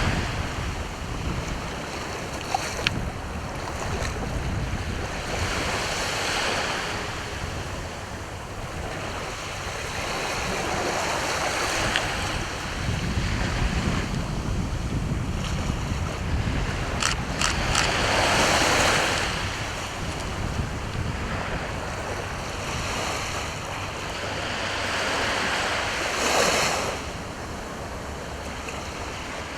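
Sea waves breaking and washing onto the shore, the surf swelling loud every several seconds, with wind rumbling on the microphone. A few brief clicks come just past the middle.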